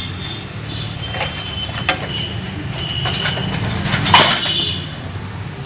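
Cylinder barrel of an XL 100 moped engine being worked down over its piston: faint knocks and thin metal squeaks, with one louder scrape or knock about four seconds in, over a steady low hum.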